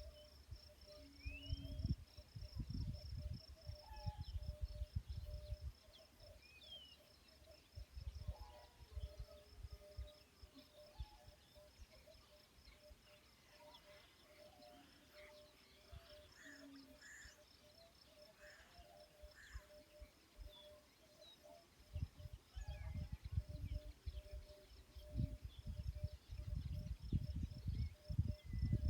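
Crickets trilling steadily in a fast, even pulse, with a second, lower pulsing insect call beneath it and a few short bird chirps. Irregular low rumbles, like wind on the microphone, come in the first few seconds and again for the last several seconds.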